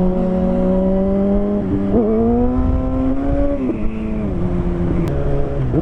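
Motorcycle engine running under way. About two seconds in its pitch jumps and climbs steadily under throttle, then falls back near four seconds and dips again just before the end, with wind rumble on the microphone underneath.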